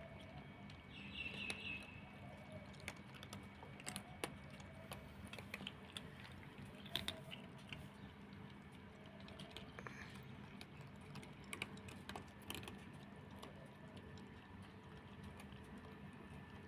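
Cats crunching dry kibble: faint, irregular crunches and clicks.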